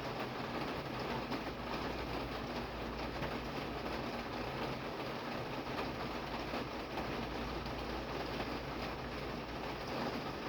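Steady rain falling: a dense, even hiss of drops with many small ticks of individual drops striking.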